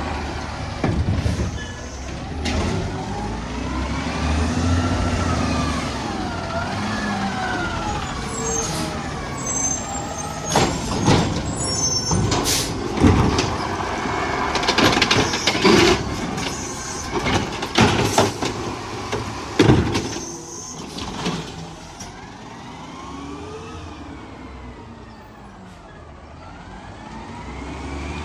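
Garbage truck at work: engine and hydraulics whining up and down in pitch, with a run of loud bangs, clanks and air-brake hisses in the middle of the stretch, quieter near the end.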